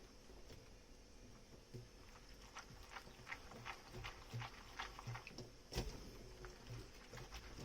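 Quiet dishwashing: soft squelching of a foamy sponge with scattered light clicks of dishes, and one sharper knock about six seconds in.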